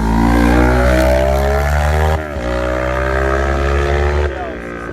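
Racing motorcycle engine accelerating hard, its pitch climbing, with a quick break for an upshift about two seconds in before it climbs again. Near the end the level and pitch drop sharply.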